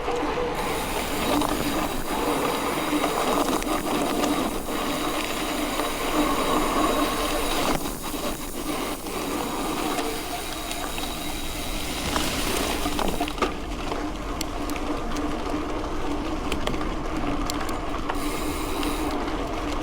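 Mountain bike rolling along a dirt road: a steady rush of tyre noise with a hum under it. A scatter of small clicks and rattles from the bike and gravel comes in the second half.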